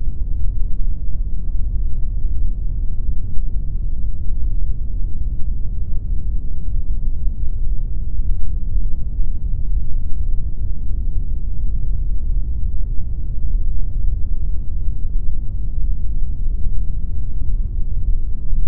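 Steady pink noise: a constant deep rushing hiss, heaviest in the bass and with no high treble, that does not change.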